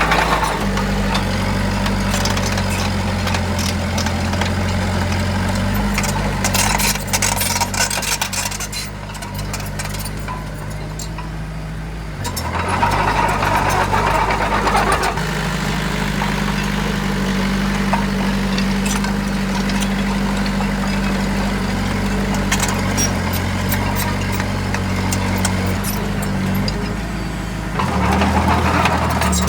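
Heavy diesel engine of construction machinery running steadily, its pitch shifting several times. Sharp clanks come in the first third, and louder rushes of noise come about halfway and again near the end.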